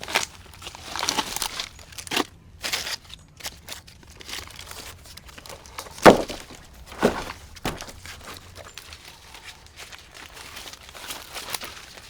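Rustling and cracking of twigs and brush, with irregular sharp snaps; the loudest snap comes about six seconds in and another about a second later.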